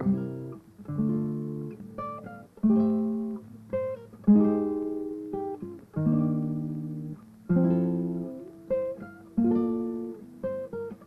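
Background music on acoustic guitar: plucked notes and strummed chords, each struck sharply and dying away, about one a second.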